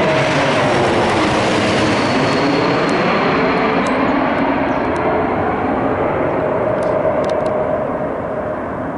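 Engines of a Porter Embraer E195 jet airliner passing close by, a loud steady roar with a high whine and tones sliding slightly lower, fading near the end.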